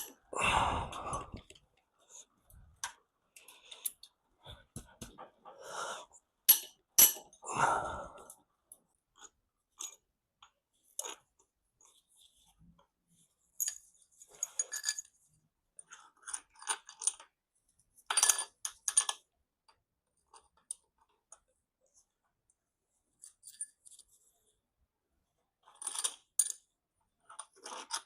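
Hand tools working on the head bolts of a Mercedes M110 cylinder head: scattered clicks and short metallic clinks of socket, breaker bar and bolts against the metal head, in clusters a few seconds apart.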